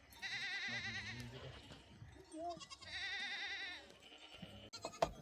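Two long, quavering bleats from livestock: one near the start and another about three seconds in, with a few sharp clicks near the end.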